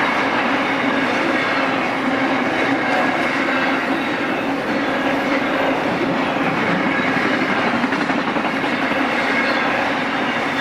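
BNSF intermodal freight train rolling past, its wheels making a steady rumble with clickety-clack over the rails.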